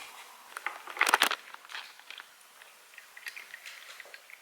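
A pet chewing and crunching food in short, crackly bites, loudest in a cluster about a second in.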